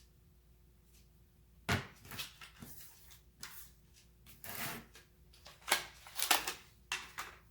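Handling noises on a workbench: a series of short, irregular rustles, scrapes and knocks starting a couple of seconds in.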